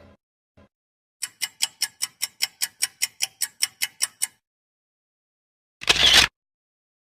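Clock-style ticking sound effect: about sixteen even ticks, roughly five a second, lasting about three seconds. A short burst of noise about half a second long follows near the end.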